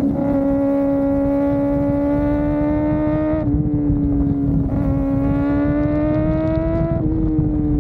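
Kawasaki ZX-4RR's 399 cc inline-four engine running at high revs under way, a steady high-pitched note that drifts slowly. The note breaks briefly about three and a half seconds in and again near the end. Wind and road rumble sit underneath.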